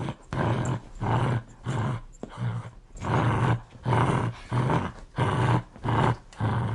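Dog growling aggressively in a rhythmic series of short, rough pulses, about two a second.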